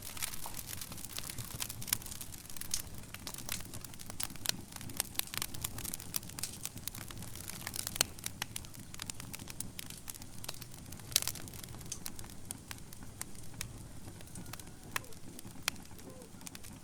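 Wood fire burning in a fireplace, with a steady low rumble and many irregular crackles and pops; the sharpest pops come about eight and eleven seconds in.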